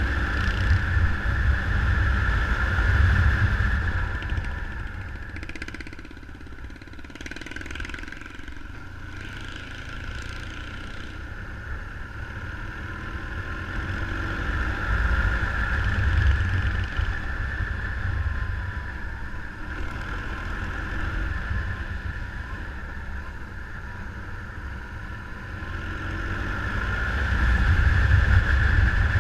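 Motorcycle engine running while being ridden, swelling and easing off with the throttle, mixed with low rumbling wind noise on the camera microphone.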